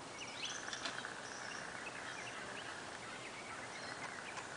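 Faint outdoor background noise with scattered short, high bird chirps, most of them in the first second.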